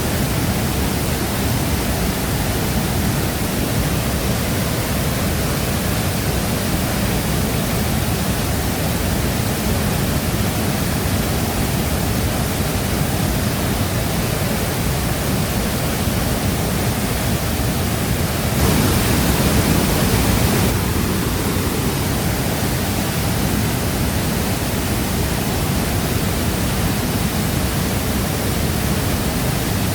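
Waterfall: falling water making a steady, even rush, a little louder for about two seconds just past the middle.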